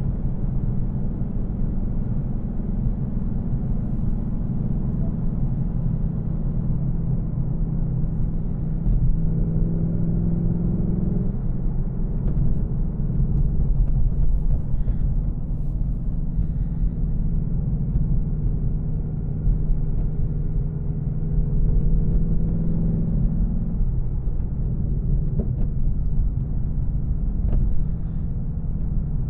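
2024 Mustang GT's 5.0-litre V8, in stock form without aftermarket headers, running at a calm cruise with a steady deep rumble and road noise. The engine note grows stronger under light throttle around ten seconds in, and again from about sixteen to twenty-three seconds.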